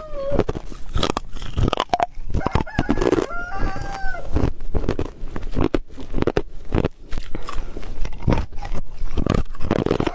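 Ice being bitten and crunched close up, with a sharp crack at each bite, over and over. A rooster crows in the background about three seconds in.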